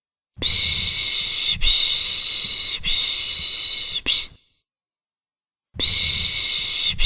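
A person shushing 'pish pish' to soothe a baby: a run of long hissing shushes about a second each, a pause of about a second and a half, then the shushing starts again.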